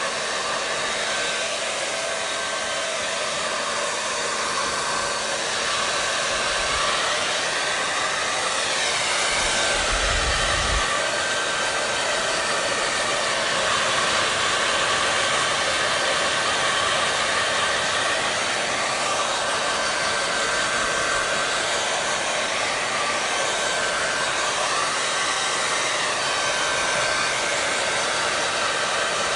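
Hair dryer blowing continuously: a steady rush of air with a faint fan whine, its tone swelling and easing slowly now and then. A brief low rumble about ten seconds in.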